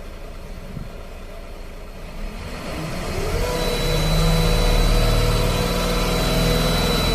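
King Long's turbodiesel engine idling, then revved up from about two seconds in and held at high revs, with a thin high whine joining as it climbs. This is a rev test of how high the engine now pulls after a low-power, check-engine fault was fixed.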